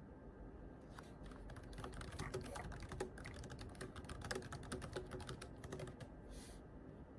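Computer keyboard being typed on quietly: a quick, uneven run of keystrokes starting about a second in and stopping near the end, followed by a short rustle.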